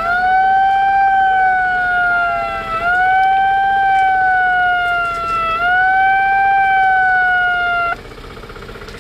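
Emergency-vehicle siren wailing loudly: each cycle jumps up in pitch and then slides slowly down, repeating about every two and a half seconds, until it cuts off suddenly near the end, leaving a quieter rumble.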